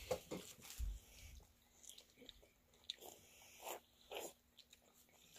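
Faint mouth sounds of someone eating a peeled rambutan: chewing, with short scattered mouth clicks.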